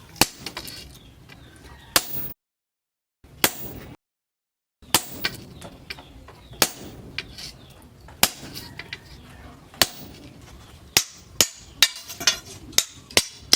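Hammer strikes on steel, sharp single blows about a second apart that come faster near the end. The sound drops out completely twice, briefly, early on.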